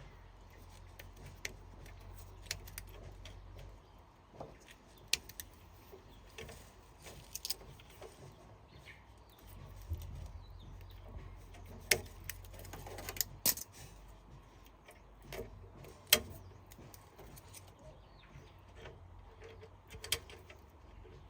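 Sporadic sharp clicks and clinks, about a dozen spread irregularly, the loudest a little after the middle, over a faint low hum.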